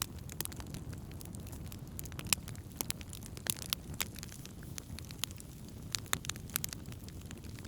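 Wood campfire crackling, with frequent irregular sharp pops and snaps over a low steady rumble. The loudest pop comes a little past two seconds in.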